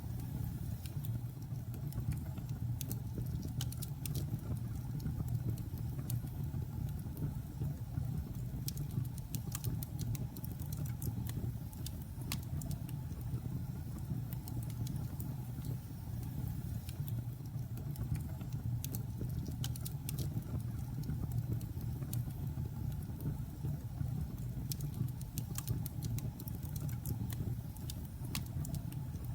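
Wood logs burning in a fireplace: a steady low rumble of the fire with frequent short, sharp crackles and pops scattered throughout.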